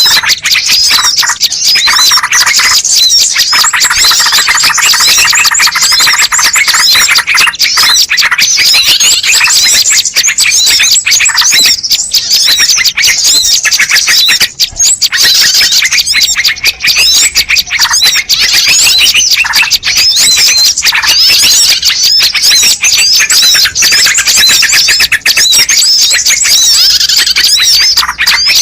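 Bird-lure recording of many small birds chirping and twittering at once, a dense, loud, unbroken chorus of rapid high chirps and trills.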